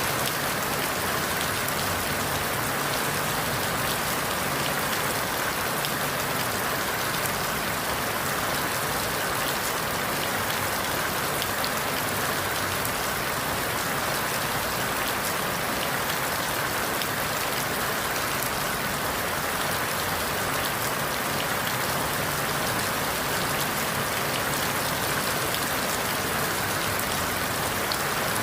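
Steady rain falling through forest leaves, an even hiss with many fine drop ticks and no change in level.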